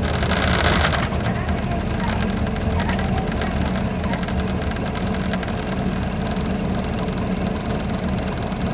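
Isuzu Gala coach's V-type diesel engine idling steadily, heard from inside the cabin, with a brief hiss in about the first second.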